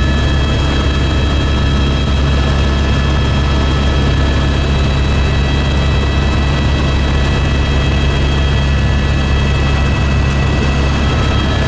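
Helicopter running steadily: a loud, constant drone of engine and rotor with several steady high whining tones above it.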